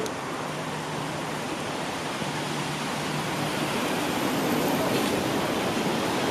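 Steady rushing hiss of a commuter train running on wet track mixed with rain, growing a little louder toward the end.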